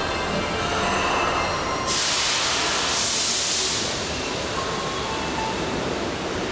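Seibu 6000 series electric train standing at an underground platform with a steady hum. About two seconds in, a loud hiss of compressed air is let out from the train for about two seconds, then the hum carries on.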